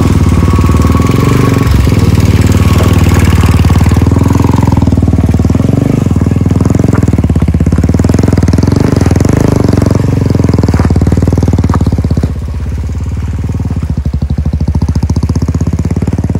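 Motorcycle engine running while under way, a steady rapid thumping that eases slightly about twelve seconds in.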